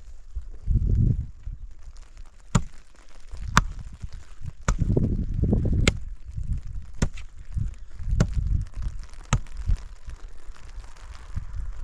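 A hand tool striking repeatedly, sharp blows about one a second, with low thuds and knocks of handling between them.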